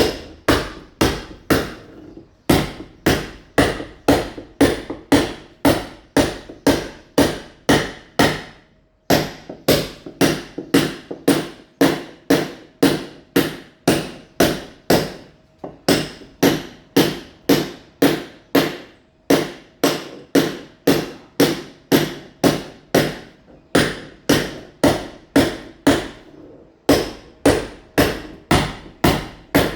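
Mason's hammer chipping a masonry wall, roughening it to take ceramic tile: sharp, evenly spaced blows, about two a second, with short pauses every few seconds.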